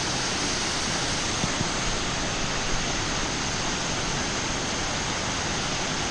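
Bald River Falls waterfall: a steady rush of falling water.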